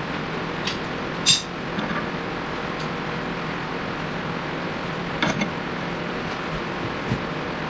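A few sharp metallic clinks of hand tools against steel parts over a steady hiss, the loudest about a second in and the others near the end.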